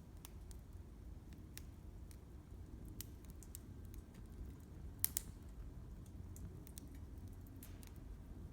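Wood fire crackling: scattered sharp pops and snaps at an irregular pace over a low steady rumble, with a louder double pop about five seconds in.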